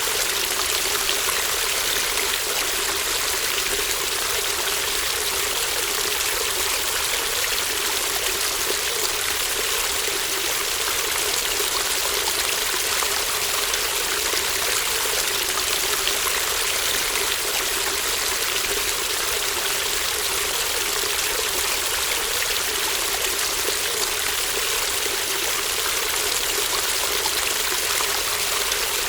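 Small shallow stream babbling steadily, a continuous even rush of running water.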